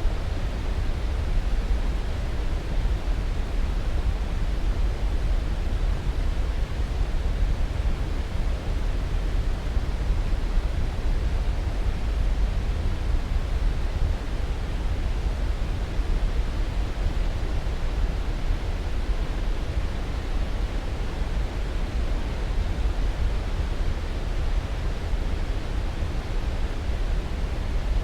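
Steady white-noise sleep sound: an even, unchanging rush with most of its weight in the deep bass.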